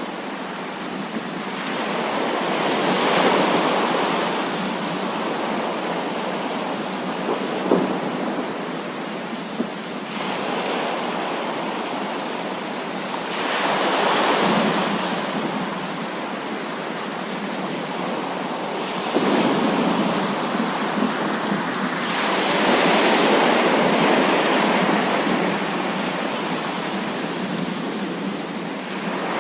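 Heavy rain pouring steadily in a thunderstorm, swelling louder several times as thunder rolls, with a couple of brief sharp cracks near the middle.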